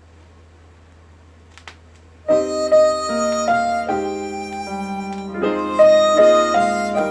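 A low steady hum with a faint click. About two seconds in, a harmonica melody comes in loud over electric piano chords, opening the next song's instrumental intro.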